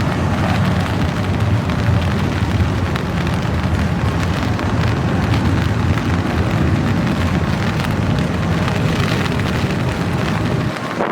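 Long intermodal freight train rolling slowly past, a steady low rumble of wheels on rail mixed with the hiss of rain. The rumble drops away suddenly near the end.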